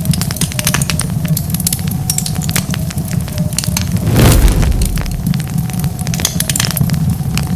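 Fire crackling with dense, irregular pops over a low steady rumble. About four seconds in there is a louder burst of noise lasting about half a second.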